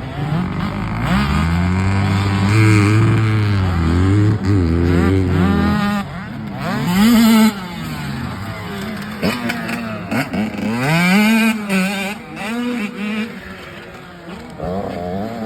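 Motocross dirt bike engines revving hard, their pitch climbing and dropping again and again as riders work the throttle and shift gears while racing. Several bikes overlap, and a deeper engine drone is loudest for the first few seconds.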